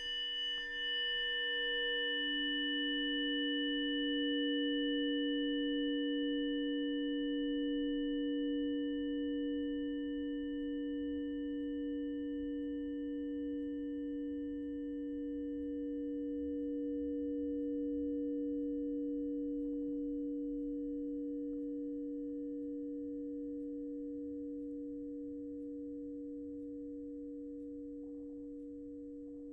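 Two deep, sustained sound-healing tones ringing on after being struck, one lower and one higher. Their brighter overtones fade away within about fifteen seconds, and the pair then slowly dies down.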